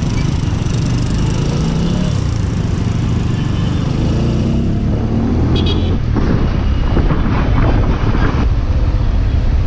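TVS Apache RTR 200 4V's single-cylinder engine running as the motorcycle rides through city traffic, its pitch rising and falling with the throttle, with wind on the microphone and the sound of surrounding traffic. It gets louder from about six seconds in.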